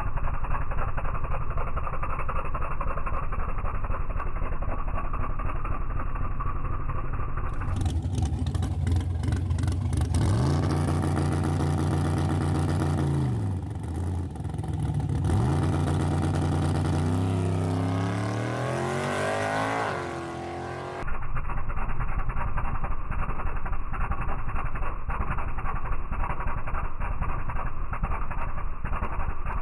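Drag-racing vehicle's engine running under load. The pitch climbs, drops back, then climbs again and rises steeply through the revs before cutting off suddenly. Before and after this, steady muffled engine noise.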